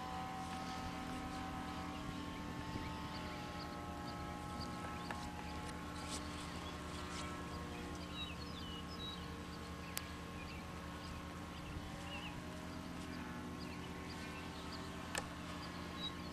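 Electric motor and propeller of a ParkZone T-28 RC plane in flight, a steady whine whose pitch slides down and back up several times as the throttle and distance change.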